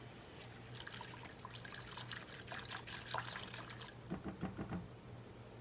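Milk or half-and-half being poured into a saucepan of warm sauce, trickling and gurgling, with a few gulping sounds from the carton about four seconds in.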